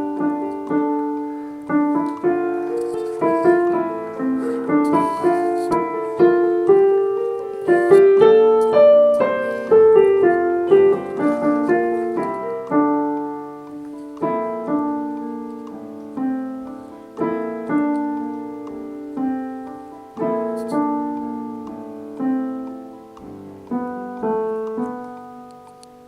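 Piano playing a slow chordal passage, each note struck and then decaying, with the last notes dying away at the end.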